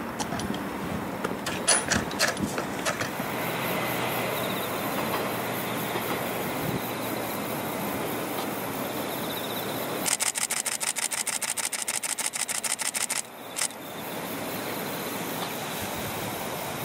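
Diesel railcar running along the line at a distance, a steady outdoor rumble with a few sharp clicks early on. About ten seconds in, a rapid, evenly spaced clicking lasts about three seconds.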